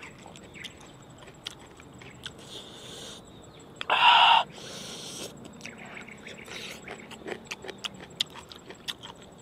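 Close mouth sounds of someone eating a salad with chopsticks: many small chewing and lip-smacking clicks, with one loud burst of noise about half a second long about four seconds in.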